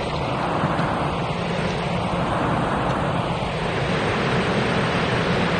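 Taiwan Railways electric multiple-unit commuter train approaching on the track: a steady, broad rumble of wheels on rail and running gear that holds level as it draws near.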